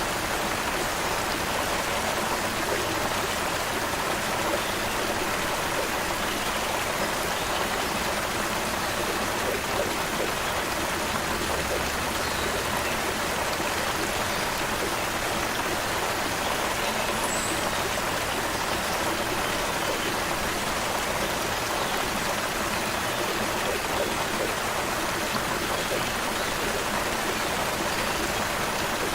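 Stream water running steadily, an even watery hiss with no breaks, and one brief faint high chirp about two-thirds of the way through.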